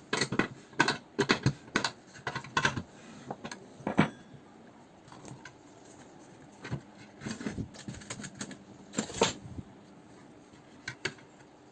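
Irregular small hard clicks and taps of hardware being handled and fitted, as a nut is tightened on the heating coil's fitting. The clicks are busiest in the first three seconds and again around seven to nine seconds.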